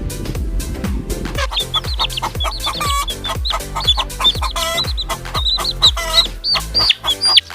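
Chickens calling over electronic dance music with a steady kick-drum beat. From about a second and a half in come many short, high peeping calls, mixed with a few fuller clucks.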